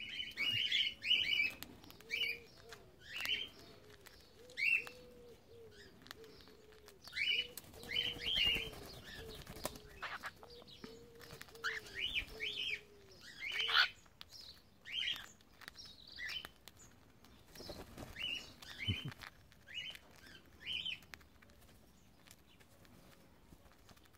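Cockatiels chirping: short, high calls every second or so, over a low wavering tone through the first half, with a flutter of wings around the middle.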